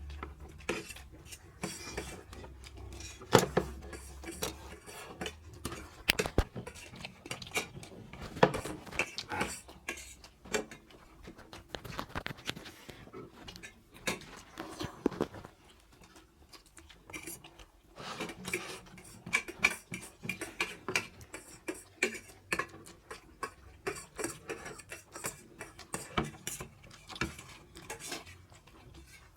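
Eating noises: spoons and forks clicking and scraping against plates in many irregular, quick taps, with the sharpest knocks about three and eight seconds in.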